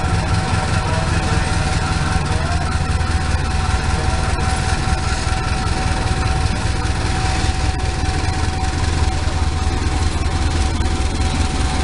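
Diesel-electric passenger locomotive running as it approaches and passes close by on the line, a steady heavy low drone with the noise of the train on the track. A thin steady tone sounds alongside and stops near the end.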